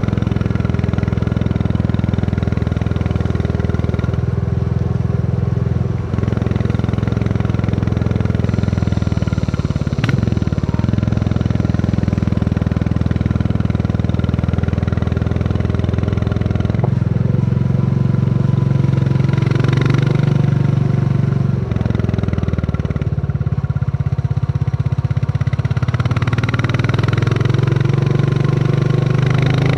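Royal Enfield Classic 350's single-cylinder engine thumping steadily under way, its note shifting a few times with changes of throttle.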